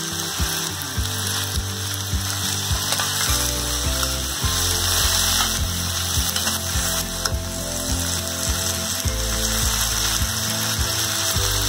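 A metal spatula scrapes and clacks against a stainless-steel kadai in repeated clicks as vegetables and ground spices are stirred, over the sizzle of frying in oil.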